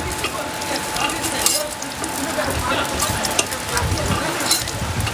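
Food sizzling and frying in a pan while it is stirred, with scattered clicks and knocks of the utensil against the pan.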